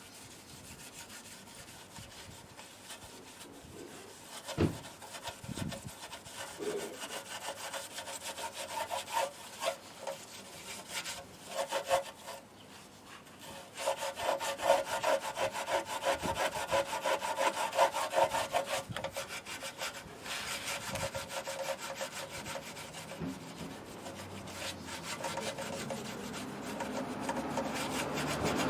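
Rapid back-and-forth rubbing strokes of a part being worked by hand with an abrasive, scouring or sanding, louder from about halfway through.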